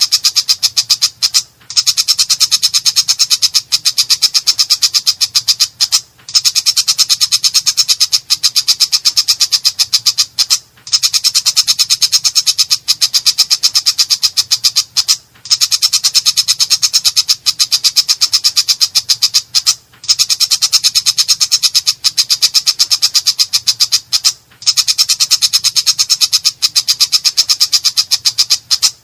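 Long-tailed shrike (cendet) singing a harsh, rapid chattering song of fast repeated notes, in phrases of about four seconds broken by short pauses.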